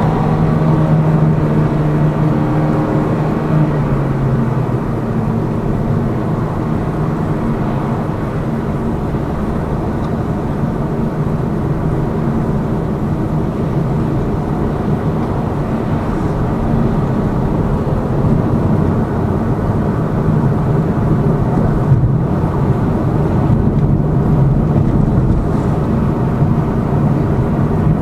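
Inside the cabin of a Lada Vesta Cross on the move: its 1.8-litre four-cylinder engine and the road and tyre noise. The engine note falls over the first few seconds and picks up again in the second half. No suspension knock stands out: the knock went away when the shock absorbers were replaced.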